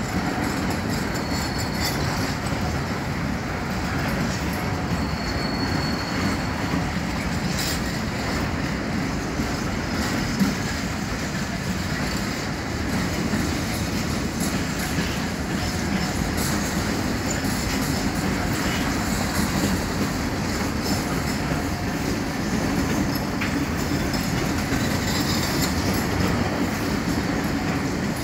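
Container freight train's wagons rolling past on the rails: a steady rumble of wheels on track, with two brief faint high wheel squeals in the first six seconds.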